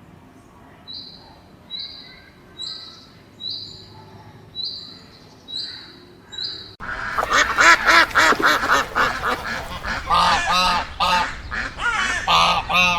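A row of about seven short, high peeps. Then, after an abrupt cut about seven seconds in, a flock of waterfowl calling loudly with many overlapping honks and quacks.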